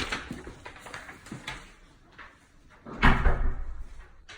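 A door thuds shut about three seconds in, after a few lighter knocks and rattles.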